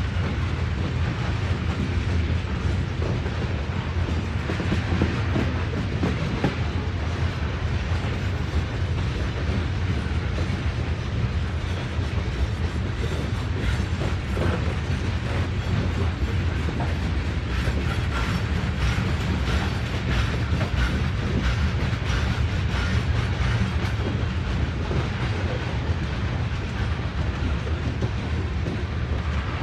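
Freight train cars rolling past in a steady rumble, their wheels clicking over rail joints.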